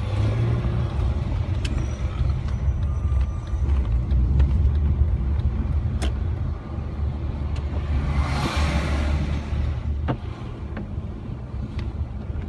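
Interior sound of an MG ZT 190's 2.5-litre V6 pulling away and running through town, a deep steady drone with tyre noise on a wet road. A brief hissing rush swells and fades about eight seconds in.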